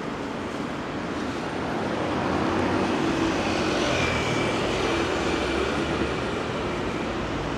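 A vehicle passing in the street, its low rumble swelling about two seconds in and easing near the end, over a steady hiss.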